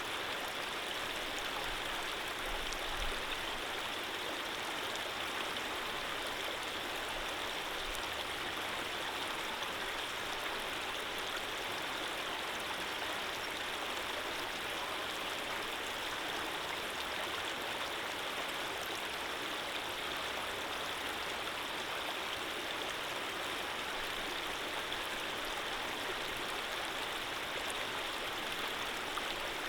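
Running water flowing steadily, as in a gentle stream: an even, unbroken rush.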